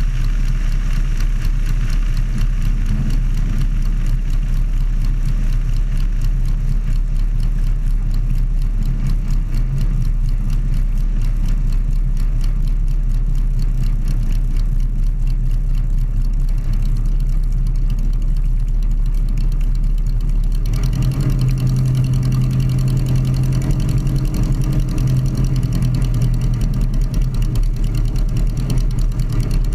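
Volkswagen-based air-cooled flat-four engine of a Sonerai light aircraft running steadily under break-in. About two-thirds of the way through, its tone steps up and grows fuller, a change in power setting.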